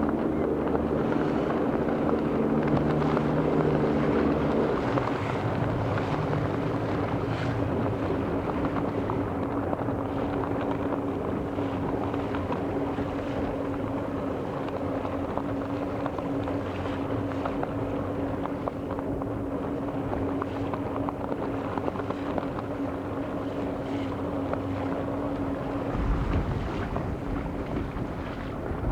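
A motorboat engine running at a steady speed, with wind buffeting the microphone. Its note shifts about five seconds in and drops away near the end, leaving mostly wind rumble.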